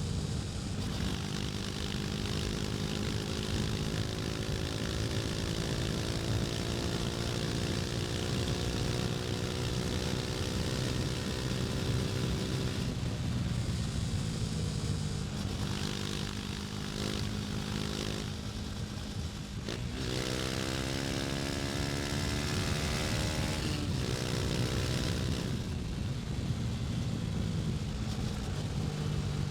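KTM Duke 250's single-cylinder engine pulling under way, its note climbing slowly for the first dozen seconds, then dropping and climbing again several times as gears change, with a quick rising sweep about twenty seconds in and a steadier lower note near the end. Wind noise rushes over the engine.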